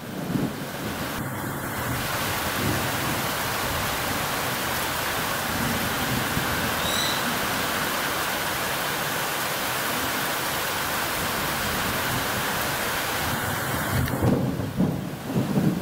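Steady heavy rain hissing down on garden trees. A low rumble comes in near the end, and a single short high chirp sounds about halfway through.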